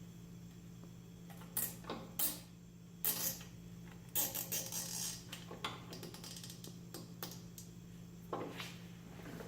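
Hands working cable ties and load cell cables: a handful of sharp clicks and scratches, with a longer scratchy stretch about four seconds in, over a steady low hum.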